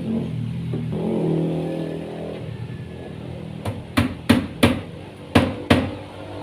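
About six hammer blows in quick succession, starting a little past halfway and lasting about two seconds, over a steady low engine-like drone.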